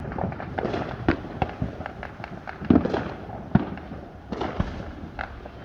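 Consumer fireworks going off in quick, irregular succession: a steady run of crackles and pops with several heavier bangs among them.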